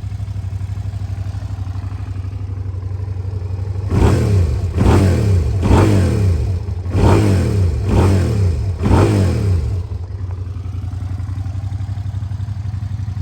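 Suzuki SV650S's liquid-cooled, fuel-injected V-twin running through an aftermarket Leo Vince exhaust. It idles steadily, then is revved six times in quick succession from about four seconds in, each rev rising sharply and dropping back, before it settles back to idle.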